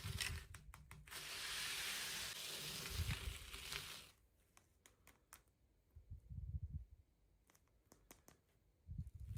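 Toy packaging being torn open: a continuous tearing noise lasting about three seconds, followed by scattered light clicks and low handling thumps.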